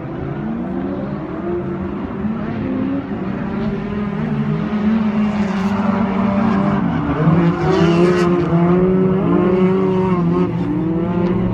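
Several drift cars' engines revving hard, the pitch rising and falling and overlapping as they slide through a corner, getting louder partway through.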